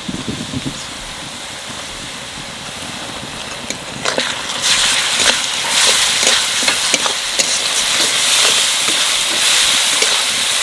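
Sliced onions frying in oil in an aluminium kadai, sizzling while a spatula stirs and scrapes against the pan. About halfway through the sizzle grows louder as ginger-garlic paste goes into the hot oil.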